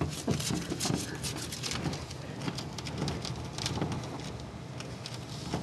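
Blizzard wind driving snow, a dense irregular pattering and crackling of ticks over a steady low rush.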